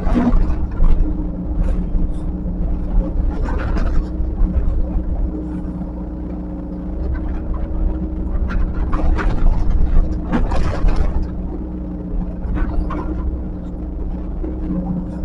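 Heavy earthmoving machine's engine running at a steady pitch, with several short scraping, rushing bursts over it, the longest between about 9 and 11 seconds in.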